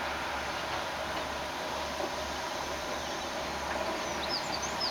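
Steady outdoor background noise with a low rumble. A small bird starts chirping near the end, a few quick high calls.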